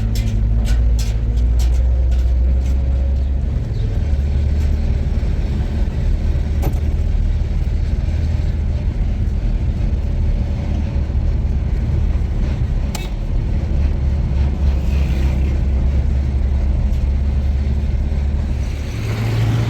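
Steady low rumble of a road vehicle running. A run of quick ticks comes in the first second, and a couple of single sharp clicks come later.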